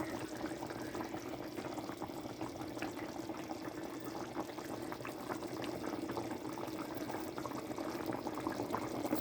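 Chicken curry in tikka masala sauce simmering in a pot, bubbling steadily with many small pops.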